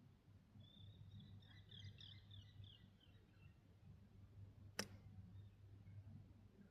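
Near silence over a steady low hum, with a faint bird twittering for a couple of seconds and a single sharp click a little before the end.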